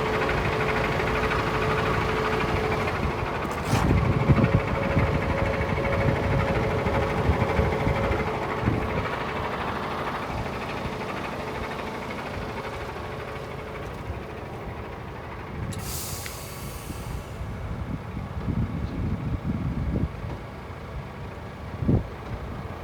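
Heavy truck's Paccar Euro 6 diesel engine running steadily, with a sharp click about four seconds in. About two-thirds of the way through there is a short hiss of air released from the truck's air system.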